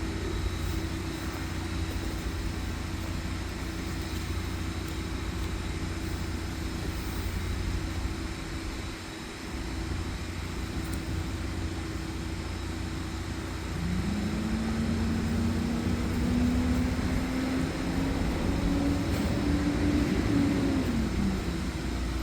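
Sewer jetter's high-pressure pump unit running steadily, a low rumble with a constant hum, while its 3,000–4,000 psi nozzle is run down the sewer line. About two-thirds of the way in, a second engine-like tone rises and holds, getting louder, then drops away shortly before the end.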